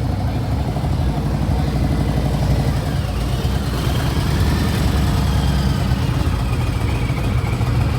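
Motorcycle engine running with a rapid, steady pulsing exhaust note, loud and close.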